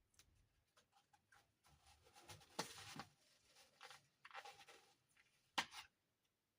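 Hands handling small toy furniture pieces and packaging: soft rustling with scattered light clicks and taps, the sharpest clicks about two and a half and five and a half seconds in.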